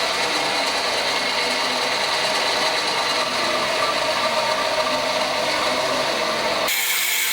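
A small motor-driven machine tool running with a gear-like whirr while taking metal off a part. The sound cuts abruptly to a different, thinner sound near the end.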